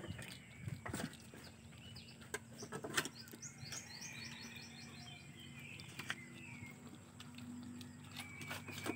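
Small birds chirping, with a fast run of high chirps about four seconds in. A few sharp clicks break in, the loudest about three seconds in.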